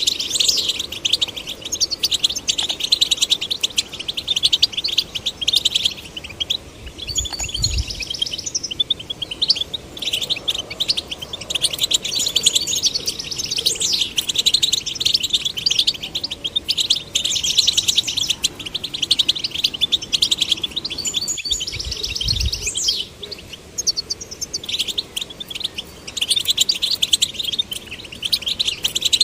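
European goldfinches singing: a fast, continuous twittering of rapid chirps and trills, with two brief low thumps partway through.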